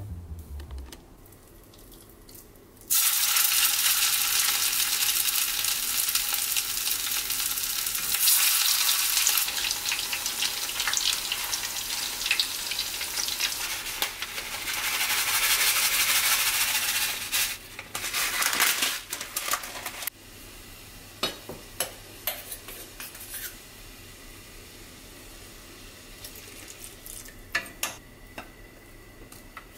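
Meatballs frying in hot oil with a steady, loud sizzle, which stops about two-thirds of the way through. After that come quieter stovetop sounds with scattered sharp clicks of utensils against the pan.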